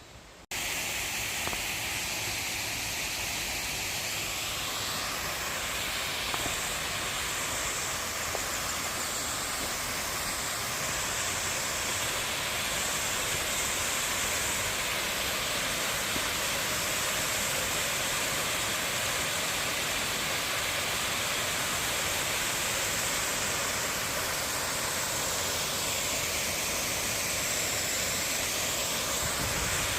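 Valley stream water rushing in a steady, even roar that cuts in suddenly about half a second in.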